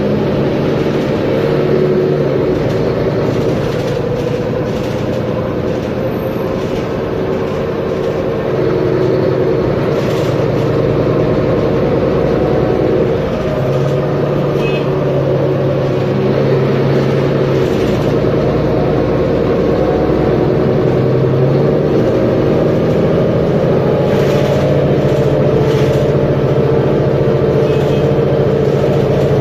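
Mercedes-Benz Conecto G articulated bus's OM457LA six-cylinder diesel engine running under way, its engine speed changing in steps several times.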